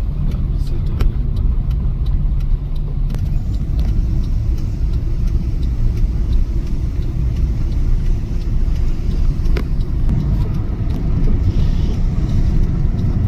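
Car driving, heard from inside the cabin: a steady low rumble of engine and tyre noise, with a few light clicks.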